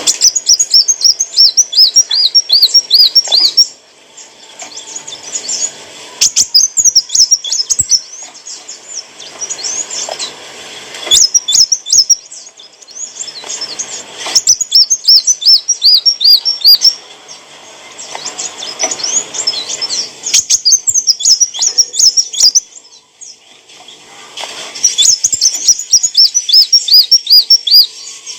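Kolibri wulung (a sunbird) singing: loud, high-pitched phrases of quick repeated looping notes, each phrase lasting two to three seconds and coming again after short pauses, about half a dozen times.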